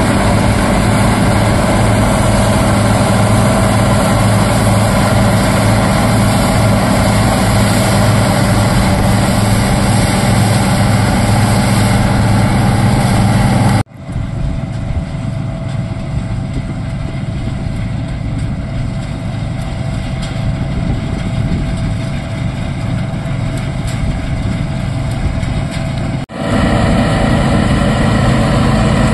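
Heavy diesel engine of a Bizon Z056 combine harvester, its SW400 six-cylinder, running steadily at an even speed. The sound cuts abruptly about 14 seconds in to a quieter, duller stretch of steady engine noise, then cuts back to the louder engine about 26 seconds in.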